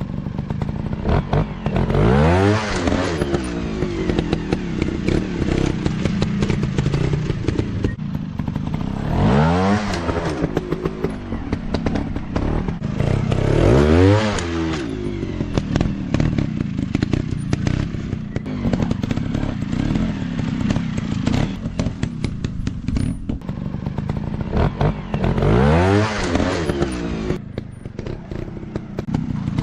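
Dirt bike engines running, revving up and dropping back four times in rising-then-falling sweeps, over steady engine noise with clattering and knocks.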